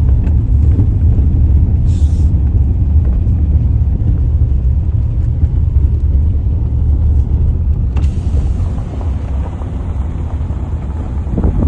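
Steady low rumble of a car on the move, with a single sharp click about eight seconds in.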